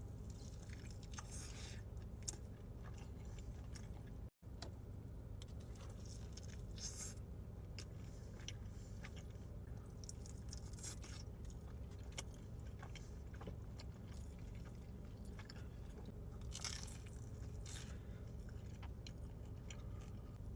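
Close-up eating sounds: a person chewing, with scattered crunchy bites, over a steady low hum. The sound drops out briefly about four seconds in.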